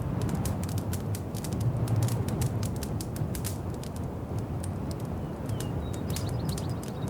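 Wood fire crackling in a fireplace: irregular sharp pops and snaps over a steady low rumble of the flames. In the second half a few faint, high, bird-like chirps sound.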